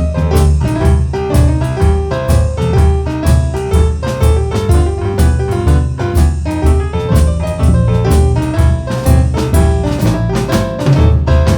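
A boogie-woogie piano trio playing live: piano with a repeating left-hand bass figure, driven by steady drum-kit strokes.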